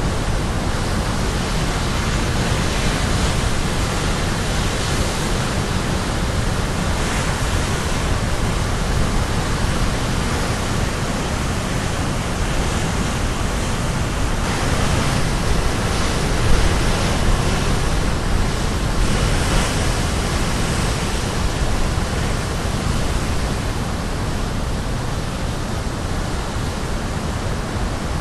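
Caribbean Sea surf crashing against the shore in a steady, continuous roar of breaking waves. It swells now and then as larger waves break and wash in.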